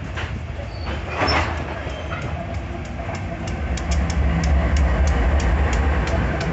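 Freight train passing close by: hopper wagons rolling on the rails, then a mid-train diesel locomotive going by about three and a half seconds in, its engine adding a louder low rumble. A run of sharp, regular wheel clicks on the track comes in with it.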